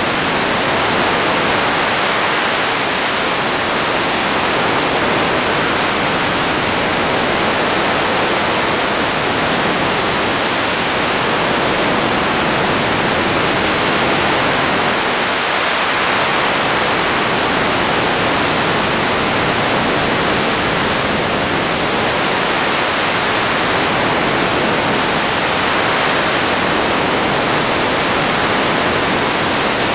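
Radio static: a steady, even hiss.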